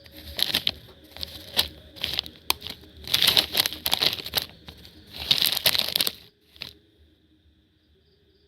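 Bursts of crinkly rustling, like dry leaves or plastic being disturbed, with a few sharp clicks among them, stopping a little after six seconds in.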